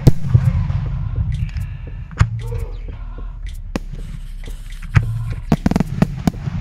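Fireworks going off: a run of sharp bangs and crackling pops at uneven spacing, loudest right at the start and again from about five seconds in, over a steady low rumble.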